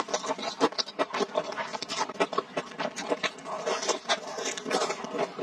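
Close-miked chewing of soft, spicy food, with a steady run of wet smacks and mouth clicks, several a second.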